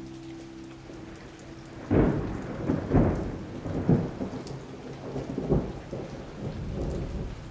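Steady rain falling, then thunder breaking suddenly about two seconds in and rolling on in several loud peaks over the next few seconds before fading.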